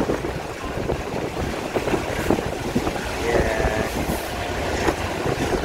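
A diesel-hauled train of old 'blue-skin' non-air-conditioned passenger coaches running along the line, heard from inside a coach at its open door: a steady rumble of the wheels on the rails with repeated clattering.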